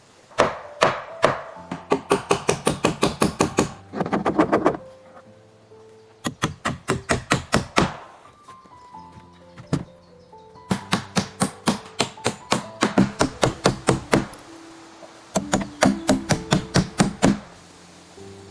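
Runs of quick, sharp knocking strikes of a hand tool on wood, about five blows a second, in several bursts with short pauses between them. Soft background music plays underneath.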